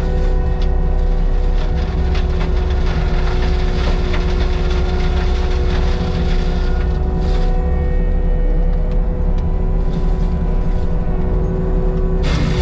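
Diesel engine of heavy land-clearing equipment running steadily under work, with a steady whine over it and scattered clanks and clicks.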